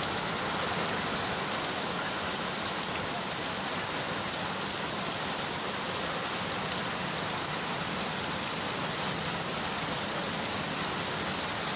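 Heavy rain falling steadily, a continuous even hiss of rain on surfaces with no let-up.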